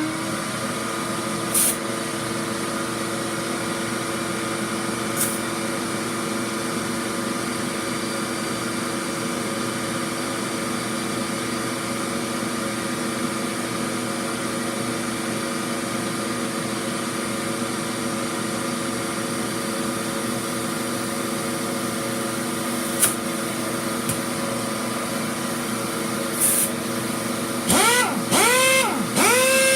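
Shop vac motor running steadily with a high whine, its exhaust pushed through a funnel reducer into an air hose as a makeshift compressor. Short hisses of air come a few times. Near the end the motor's pitch dips and recovers again and again, as if loaded and unloaded.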